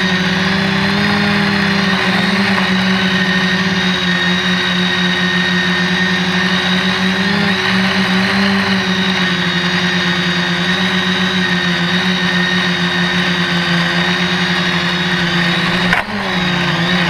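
SK450 Dead Cat quadcopter's electric motors and propellers running steadily in flight, a loud, even-pitched hum that holds almost constant, with a brief break and wavering in pitch near the end.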